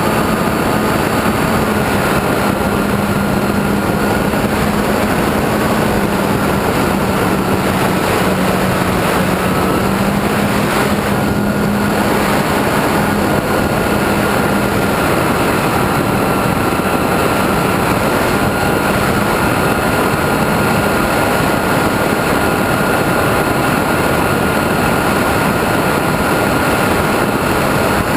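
Steady rush of wind over an onboard camera mixed with the hum of a radio-controlled airplane's motor and propeller in flight; the low hum holds an even pitch and fades out about halfway through.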